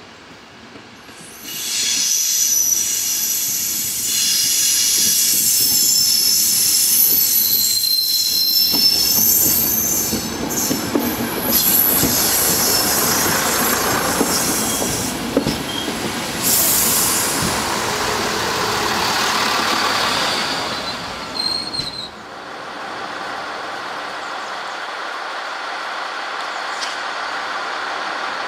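Two-car ALn diesel railcar rolling in on curved station track, its wheels squealing in high tones for about ten seconds, then running past close by. About 22 s in the sound drops suddenly to the steady running of a MaK G 2000 diesel locomotive's engine.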